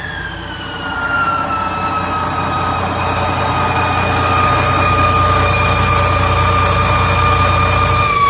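Detroit Diesel DD15 inline-six diesel engine running at raised revs: a low rumble under a high whine that falls in pitch over the first two seconds, holds steady, and begins to fall again at the very end.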